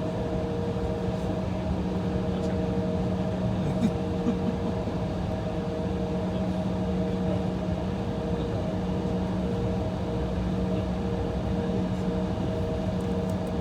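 Steady hum inside the cabin of an Embraer E175 at idle on the taxiway, a constant rumble with several steady tones from the idling engines and cabin air, and a couple of faint knocks about four seconds in.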